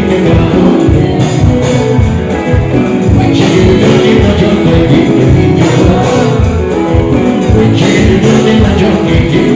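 Live band music with a singer over it, played loud through a festival PA, with guitar and a steady beat.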